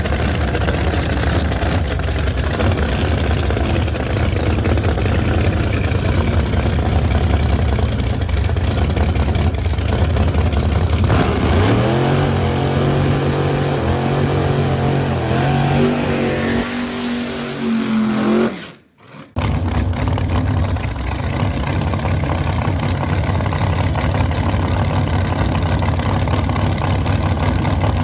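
Drag race car's engine running hard at high revs. Its pitch climbs in steps through the middle, then the sound cuts out for a moment about two-thirds of the way in before the engine noise resumes.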